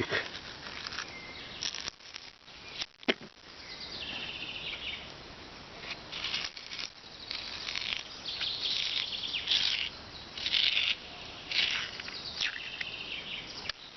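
Wild birds chirping and trilling in repeated short high phrases, with a few sharp clicks about two and three seconds in.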